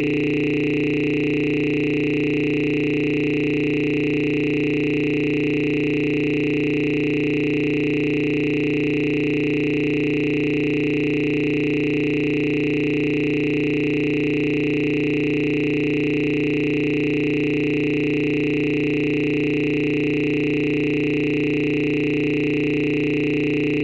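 A steady electronic drone of several held tones, low and high together, that never changes in pitch or loudness.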